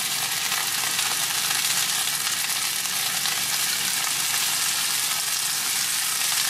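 Fresh green beans frying steadily in hot olive oil in a sauté pan, browning and blistering.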